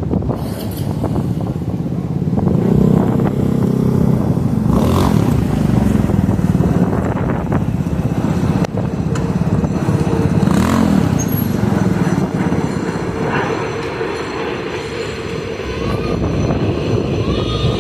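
Heavy street traffic going by, with the steady rumble of engines and a few short rising-and-falling engine notes.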